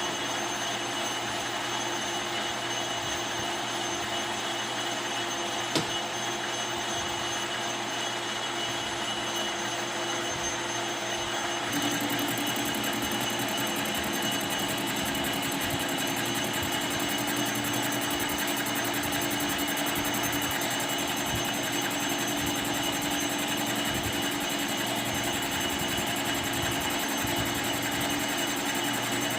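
Lathe machine running steadily with a constant machine hum and high held tones. There is one sharp click about six seconds in. About twelve seconds in the sound steps up a little and takes on a stronger low hum.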